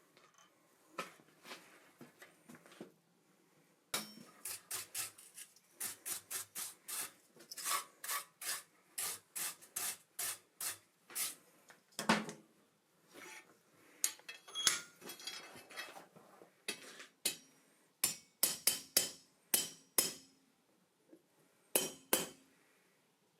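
Hand hammer blows on iron at the anvil, in runs of steady strikes about two to three a second with short pauses between runs.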